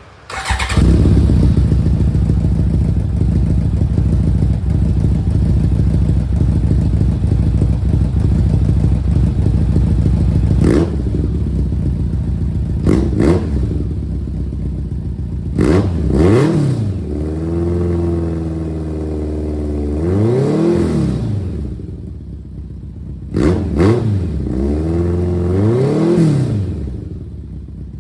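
1991 BMW K1's four-cylinder engine running through a newly installed full exhaust. It comes in about half a second in and idles steadily, then from about ten seconds in it is revved repeatedly: several quick blips, one rev held for a couple of seconds, and more blips before it drops back to idle near the end.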